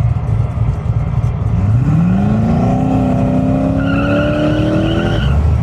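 A high-powered car engine revs up hard about a second and a half in, then holds at high revs with the pitch still creeping upward for around three seconds, and cuts off abruptly near the end. A low engine rumble runs underneath.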